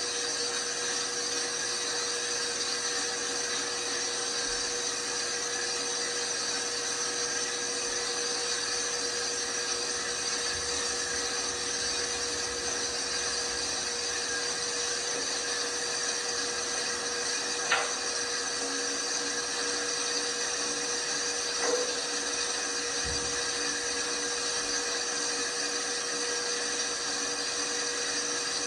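LG washing machine running steadily, its motor giving a constant whine over a hiss. There are two brief knocks in the second half.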